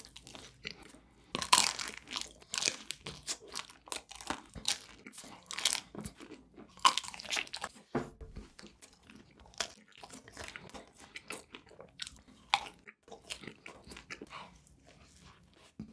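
Close-miked eating: repeated crunchy bites and chewing of a dessert, with irregular sharp crackles that come in clusters.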